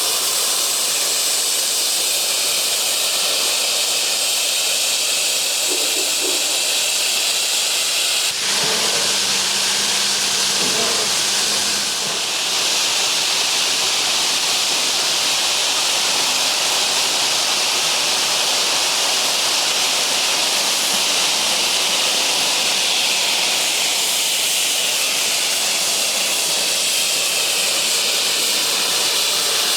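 Steady, loud hiss of steam escaping from a geared steam logging locomotive, with an abrupt shift in the sound about eight seconds in.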